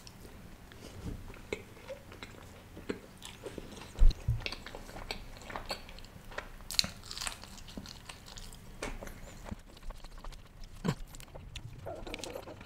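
Close-miked chewing and wet mouth smacks of a man eating a mouthful of bread dipped in creamy paneer gravy, a steady scatter of small clicks, with one low thump about four seconds in.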